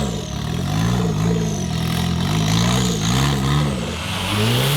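Off-road 4x4 engine revving up and down over and over, the throttle blipped in quick rises and falls.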